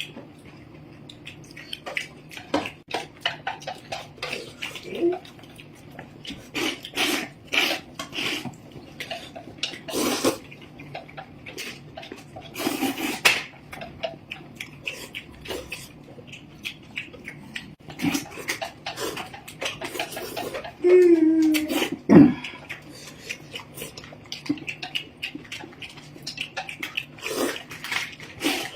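Close-up mukbang eating sounds: white noodles slurped and chewed in short, wet bursts, with light clicks of utensils on a bowl. A short vocal sound that falls in pitch comes about two-thirds of the way through.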